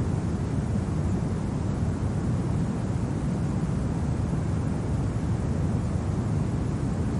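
Steady winter wind: a deep, even rumble with no distinct events.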